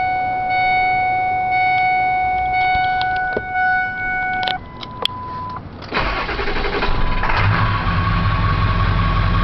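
Steady electronic tones sound in the cab for about four and a half seconds. Then the 7.3-litre Powerstroke turbo diesel V8 of a 2000 Ford F350 cranks and fires about six seconds in, after its glow plugs have heated through the wait-to-start light, and settles into a steady idle.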